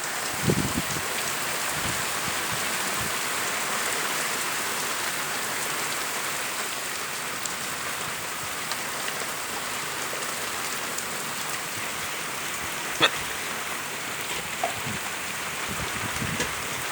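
Heavy rain pouring down in a steady hiss, with a few scattered sharp knocks, the clearest about thirteen seconds in.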